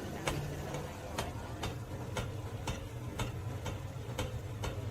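Steady ticking, about two sharp clicks a second, over a low hum.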